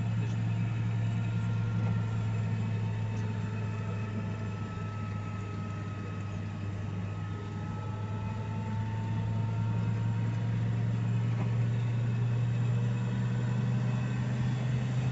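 Motor vehicle's engine running with a steady low drone, with a faint whine that slowly falls in pitch.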